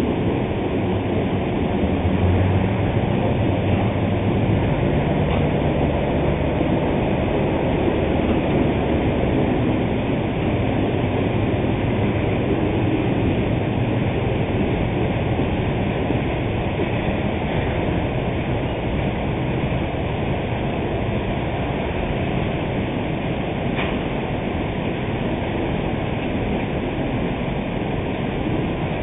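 Diesel freight train crossing a steel truss railroad bridge: a steady rumble of locomotive and freight cars rolling, with a low engine drone that is strongest a few seconds in.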